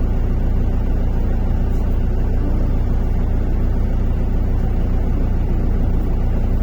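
MAZ-103 city bus under way, heard from inside the cabin: a steady low rumble of engine and road.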